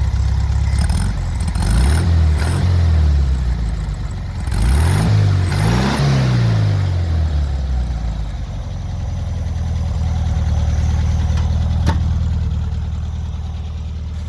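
1971 VW Super Beetle's air-cooled flat-four running through its stock pea-shooter exhaust: revved up and back down twice, then settling to a steady idle. A single sharp click near the end.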